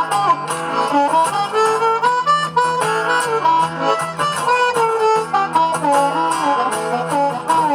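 Instrumental break between verses of a song: a harmonica plays a melody of held, bending notes over a strummed acoustic guitar.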